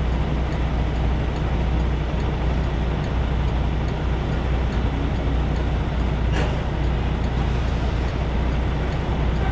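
Semi truck's diesel engine idling, a steady low hum, with faint regular ticking about twice a second and a single sharp click a little past halfway.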